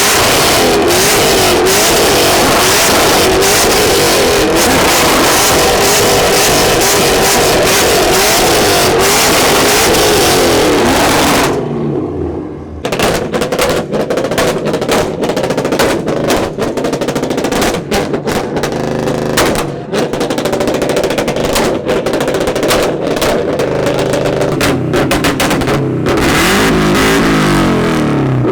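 Car engines held at full throttle in a rev battle: about eleven seconds of continuous loud revving with the pitch wavering up and down, a brief drop, then a long stretch of rapid, choppy stuttering. Steady loud revving returns near the end.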